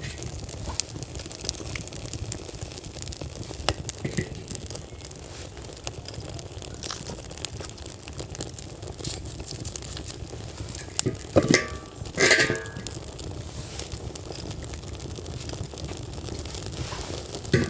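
Newly lit wood fire crackling, with scattered small pops and snaps. About eleven seconds in comes a louder clatter and scrape, twice in close succession.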